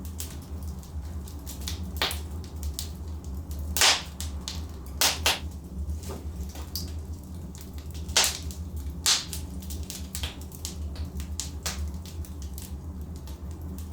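Log fire in a fireplace burning with a steady low rumble, the wood giving off sharp, irregular cracks and pops, the loudest about four seconds and about eight seconds in.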